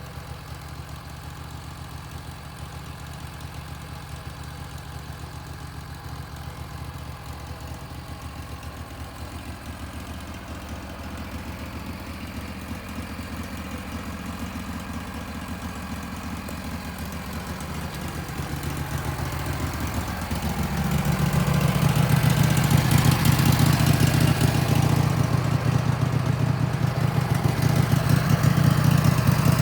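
Wood-Mizer LT15 sawmill's engine running steadily, growing clearly louder about two-thirds of the way in and then holding at the higher level.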